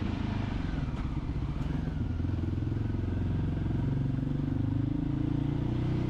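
Voge 300GY dirt bike's single-cylinder engine running on the move, its note wavering slightly as the throttle shifts.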